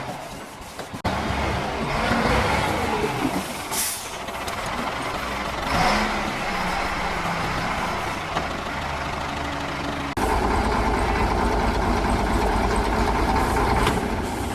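Heavy diesel engine running steadily, with two short hissing bursts a few seconds in; about ten seconds in the sound switches abruptly to a louder, steadier engine note.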